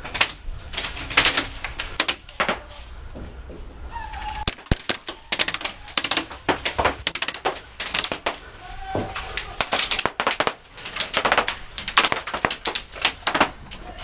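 Many sharp clicks and snaps coming in irregular clusters, with a couple of brief faint tones in between.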